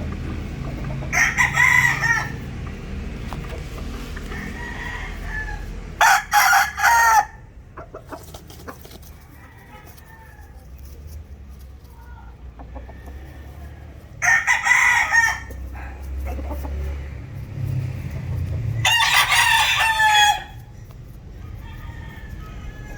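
Gamecocks crowing: four full crows, each lasting about a second and a half, spaced several seconds apart, over a steady low rumble.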